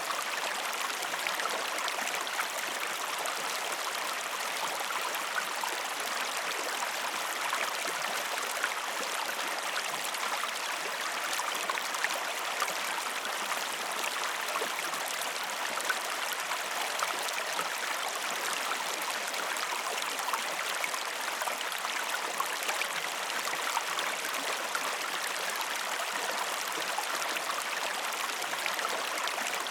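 River water flowing steadily, a continuous rush of water with fine splashes throughout.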